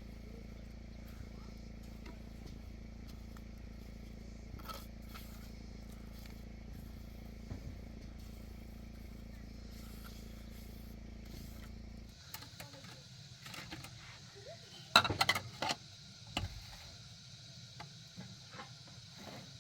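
A steady low motor hum that stops abruptly about twelve seconds in, followed by a few sharp knocks and clatters, loudest a little after that.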